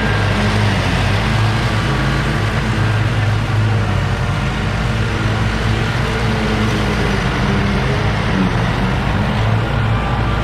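Gas-engine leaf cleanup machinery running steadily: a constant engine hum under a loud rushing-air noise, with no changes in speed.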